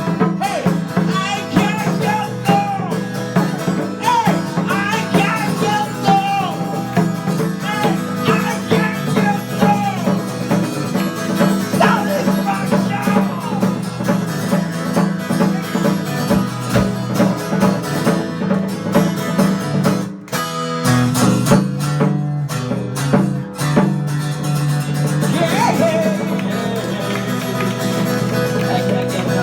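Live band music with guitar and singing, with a brief break about 20 seconds in before the playing carries on.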